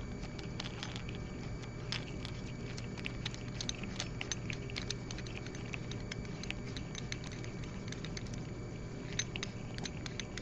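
Small metal parts of a diamond anvil cell clicking and ticking as they are handled and fitted together, a scatter of light taps, thickest a couple of seconds in and again near the end, over a steady low hum.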